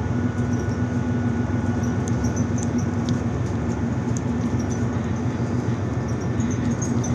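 Steady low mechanical hum with a held drone, and faint short high chirps over it.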